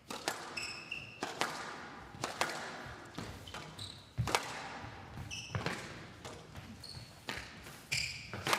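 Squash rally: the ball cracks off racquets and walls every second or so, and players' shoes squeak on the court floor between shots.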